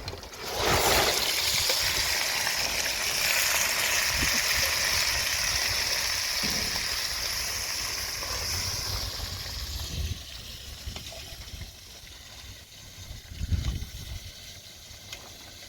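A rush of water, starting suddenly about half a second in, running steadily and then tapering off after about nine seconds.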